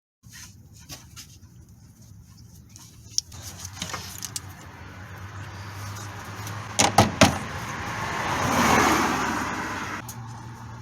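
Metal clinks and clanks from tools and parts being handled, over a steady low hum. Three sharp metallic knocks come about seven seconds in, and a rushing noise swells and fades around nine seconds.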